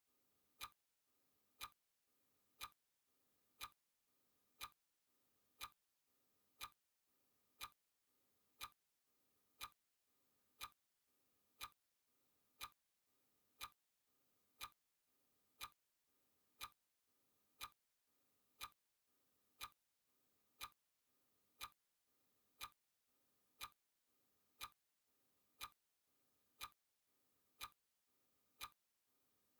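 Faint clock-tick sound effect of a countdown timer: one short, sharp tick each second, evenly spaced and unchanging.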